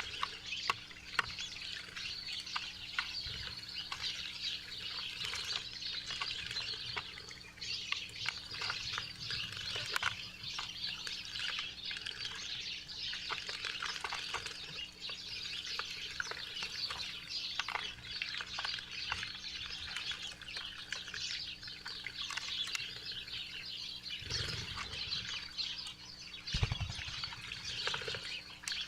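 A flock of small wild birds chirping and twittering continuously at a backyard feeder, with many short clicks and two low thumps near the end.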